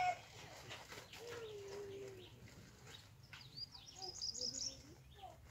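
Faint calls of birds around the pond: one long, low, wavering call from about one to two seconds in, then a cluster of high chirps mixed with a few shorter, lower notes around four seconds in.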